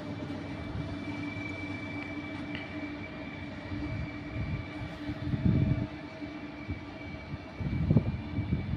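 Train at a railway station: a steady electric hum with several held tones, with louder low rumbles about five and a half and eight seconds in.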